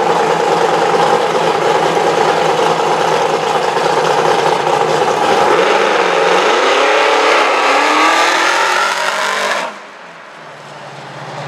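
Fox-body Ford Mustang drag car's engine running loud and steady on the start line, then launching: its pitch climbs as the car accelerates away. About ten seconds in the sound drops suddenly to a quieter, lower engine sound from farther down the strip.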